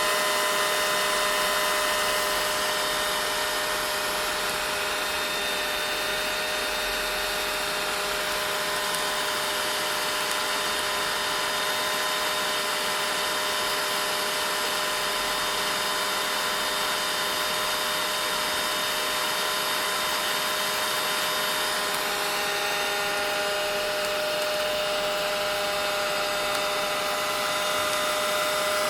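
Vacuum cleaner motor running steadily: a whine of several tones over a continuous rushing hiss, the whine shifting slightly in pitch about three-quarters of the way in.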